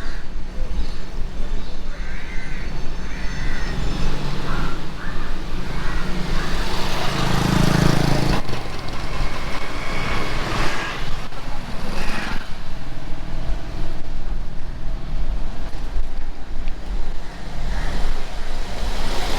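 Back-street traffic heard from a moving bicycle: motor vehicles passing, the loudest going by about seven to eight seconds in, over a steady low hum of road and riding noise.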